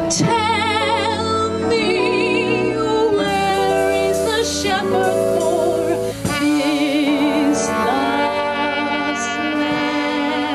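Swing band playing, with a melody line in wide vibrato over sustained chords.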